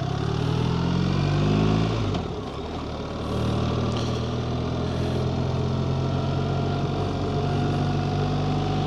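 BMW GS Adventure motorcycle's boxer-twin engine under way: it accelerates for about two seconds, eases off briefly around a gear change, then runs at a steady cruise, with wind noise on the helmet microphone.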